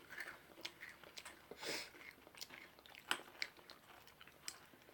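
People chewing and crunching sweet and salty M&M candies: faint, scattered crisp crackles.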